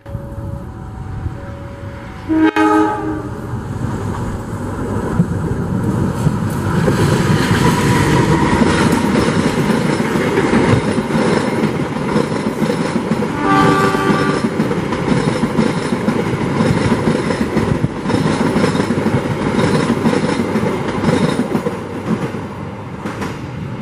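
Locomotive-hauled passenger train running straight through a station without stopping, its coaches rumbling over the rails and getting louder from about four seconds in. The locomotive horn sounds briefly about two and a half seconds in and again a little before halfway.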